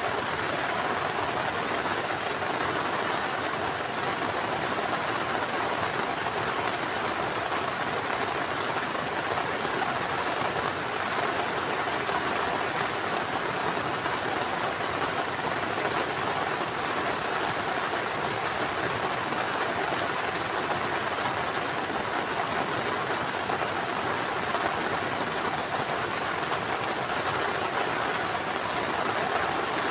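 Heavy rain falling steadily, a dense even hiss of rain on surfaces with scattered individual drop ticks.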